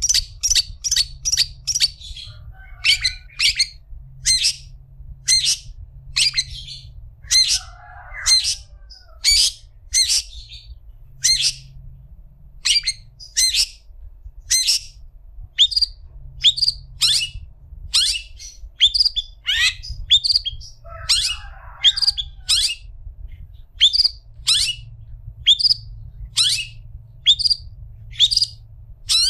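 Long-tailed shrike (cendet) giving a long run of harsh, sharp calls, each a quick downward sweep, about one to two a second, with bouts of lower scratchy chatter between them. A faint steady low hum lies underneath.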